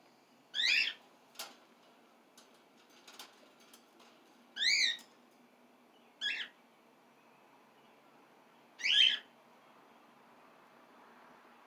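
Cockatiel calling: four loud, short, rising and warbling whistled calls a few seconds apart, with a few faint clicks in between.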